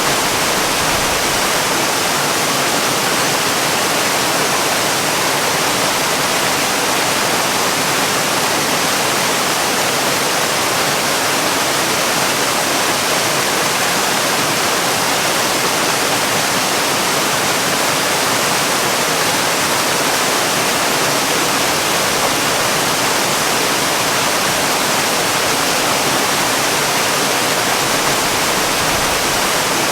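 Waterfall: falling water making a steady, even hiss that does not change.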